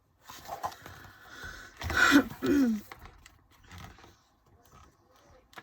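A short throaty vocal sound about two seconds in, a grunt or groan falling in pitch, after a soft rustle.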